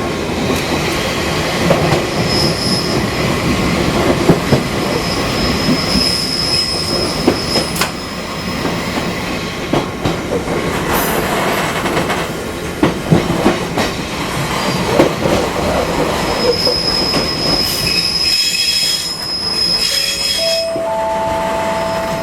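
Fukui Railway 200-series railcar running on its line: a steady rumble of wheels on rail with scattered knocks over joints. High-pitched wheel squeal rises and fades several times, most drawn out near the end as the car rounds curves.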